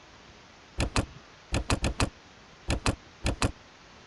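Computer mouse clicking, mostly quick double-clicks: about ten sharp clicks in four tight groups, one a run of four in quick succession.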